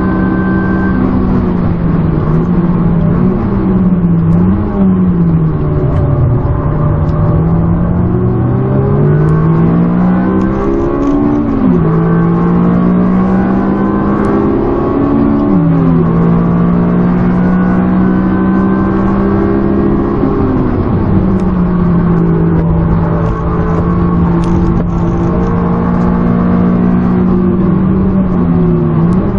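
Honda four-cylinder engine heard from inside the car on track, its pitch climbing under acceleration and dropping sharply at upshifts about 11 and 15 seconds in. Quick rev blips on downshifts come near the start and again near the end, with long stretches at steady revs between.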